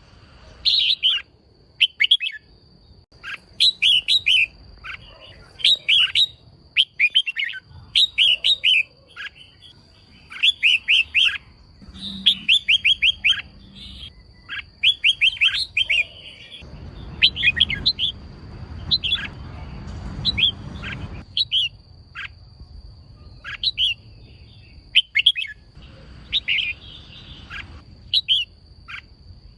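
Female red-whiskered bulbul calling: short clusters of quick, sharp chirps repeated every second or two, the kind of female call keepers play to stir males into singing.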